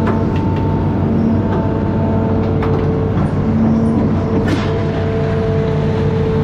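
Amphibious excavator's diesel engine running steadily under work, with higher whining tones that come and go over the drone and a few sharp knocks, the loudest about four and a half seconds in.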